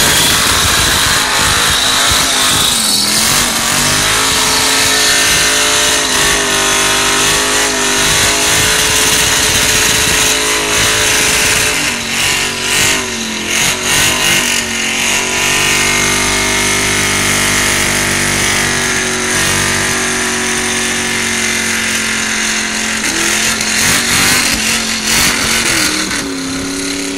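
Burnout: a small cab-over tow truck's carburetted engine, mounted in the tray, held at high revs while the rear tyres spin and smoke. Its pitch dips and climbs back a few times: a few seconds in, around the middle, and near the end.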